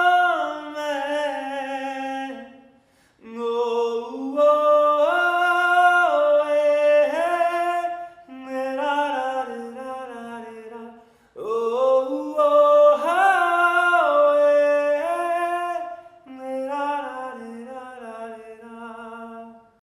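A man singing unaccompanied with no instrument, in long held and ornamented phrases that glide up and down, four phrases with short breaks between them, in the manner of a Sufi-style Punjabi love song. The voice stops just at the end.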